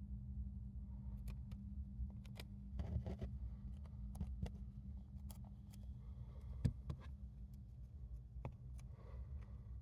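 Hamster nibbling and rustling a cabbage leaf: scattered faint crisp clicks, with one sharper click about two-thirds of the way in, over a steady low hum.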